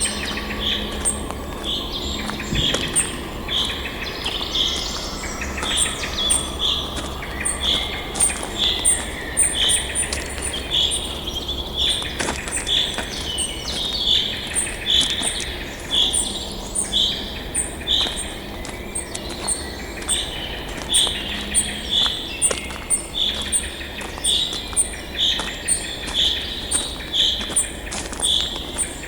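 Birds calling in a steady rhythm: one short, clear note repeated about once every three quarters of a second, over a quicker, higher ticking call, with a low steady rumble beneath.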